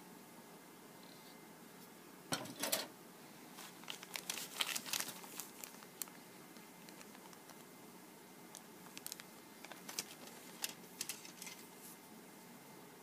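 Crinkling and rustling of plastic packaging as model kit parts are handled, in three short bursts of crackles with quiet gaps between.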